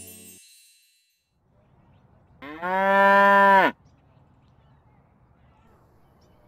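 A water buffalo moos once: a single loud call of just over a second that rises slightly in pitch and drops at its end.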